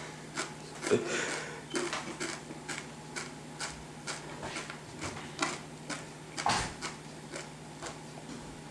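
Chewing a whole raw egg: a steady run of short crunches, about two or three a second.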